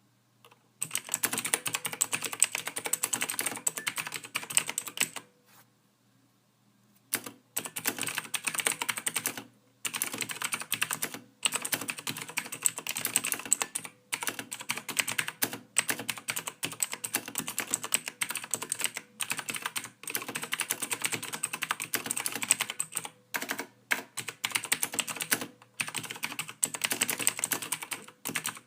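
Typing on a computer keyboard: fast runs of key clicks with short breaks between them. It starts about a second in and stops for about two seconds after the first five seconds.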